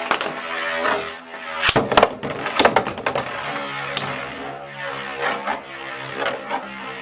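Two Beyblade Metal Fusion spinning tops, Burn Fireblaze 105HF and Lightning L-Drago 100SD, whirring as they spin in the stadium and clashing with sharp clicks and clacks, several hits close together about two and three seconds in.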